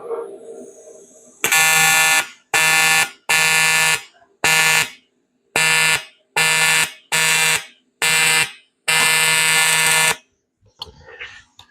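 Welding arc on aluminum buzzing in nine short bursts, each switched on and cut off sharply, the last one longest, as short tack welds are struck.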